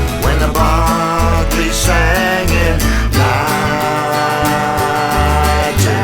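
Acoustic folk band music: guitar and other plucked strings over a double bass line moving note by note, with a melodic line bending above them.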